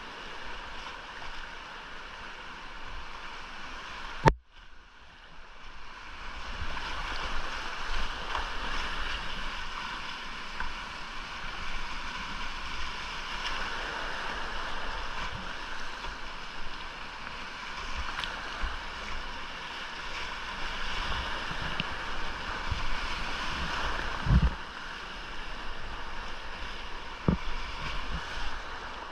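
Steady rush of whitewater around a kayak on a small, rain-swollen creek. About four seconds in comes a sharp knock, after which the water noise cuts out almost completely and builds back over a couple of seconds; a few duller thumps come near the end.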